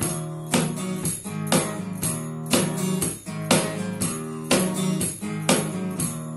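Acoustic guitar strumming chords over cajon percussion, with a strong accent about once a second and lighter strokes between, as an instrumental intro before the singing.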